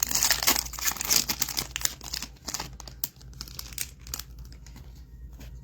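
Trading-card pack wrapper crinkling and tearing as it is opened: dense crackling for the first two seconds or so, thinning to scattered light clicks.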